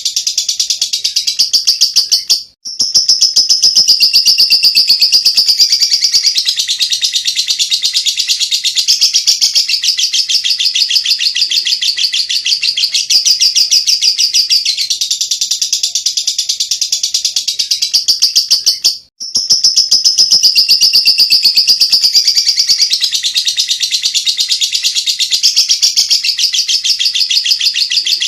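Lovebird singing ngekek, a long, unbroken chattering trill of fast-repeated high notes. It drops out for a moment twice.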